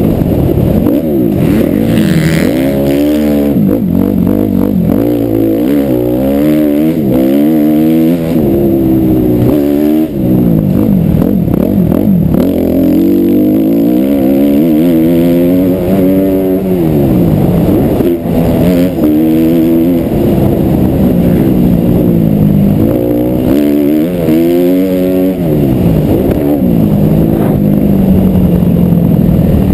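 Suzuki RM-Z250 four-stroke single-cylinder motocross bike being ridden hard, its engine pitch rising and falling over and over as the throttle is opened and shut and the gears change.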